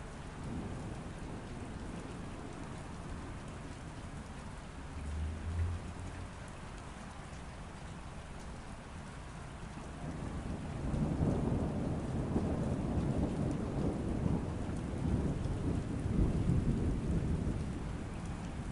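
Steady rain falling, with a brief low rumble of distant thunder about five seconds in. A longer, louder roll of thunder starts about halfway through and fades near the end.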